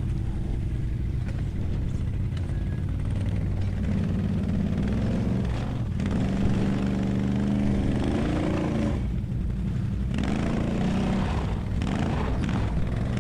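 ATV engine running, revving up about halfway through and holding higher revs for a few seconds before dropping back.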